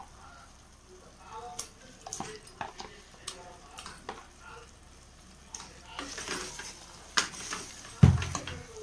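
Raw chicken pieces dropping into hot masala in a pressure cooker, with sizzling and scattered soft clicks and plops; the sizzling thickens about six seconds in. Near the end a loud low thump as a spatula goes into the pot to stir.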